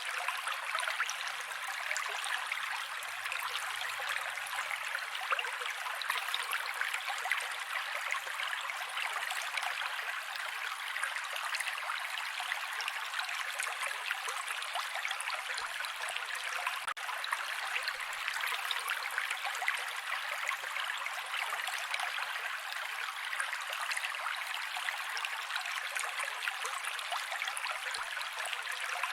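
Mountain creek water rushing and splashing over rocks in a steady, unbroken flow, mostly bright and hissy with little low rumble.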